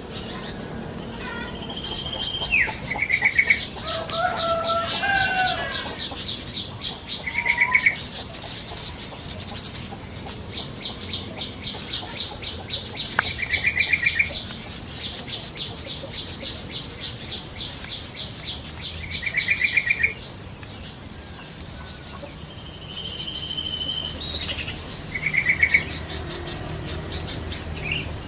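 Wild birds calling, with yellow-vented bulbuls (trucukan) among them: short chattering call notes come every few seconds. A fast high trill runs through much of the first two-thirds, and occasional high sharp notes and a held whistle come from other birds.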